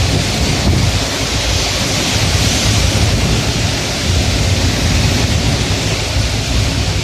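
Steady heavy rain falling at night, a dense even hiss with a deep rumble underneath.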